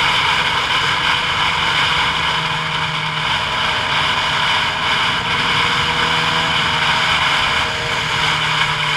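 Steady rush of road and wind noise from a vehicle travelling downhill, with faint steady tones underneath.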